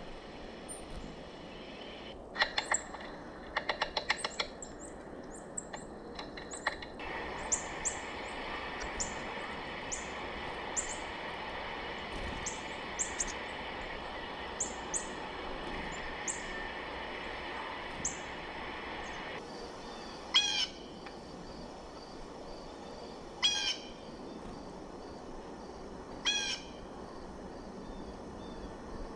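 Wild birds calling in winter: a quick run of notes, then many short high chips, then four loud harsh calls about three seconds apart.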